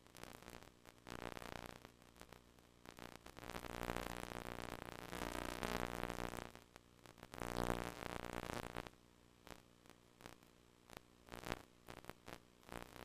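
VHS Hi-Fi audio buzz from a slightly damaged tape: a low buzz with many evenly spaced overtones that swells up and drops back in surges, loudest from about a third of the way in to two thirds, with scattered static clicks and crackles.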